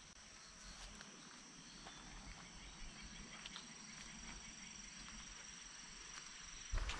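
Faint chorus of insects trilling, a steady high even tone with scattered soft ticks. Near the end a louder noise cuts in suddenly.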